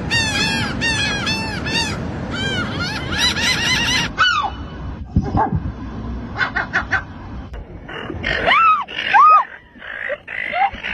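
Seagulls calling: a fast run of repeated arching cries over the first four seconds, then scattered single calls, with two louder drawn-out cries near the end.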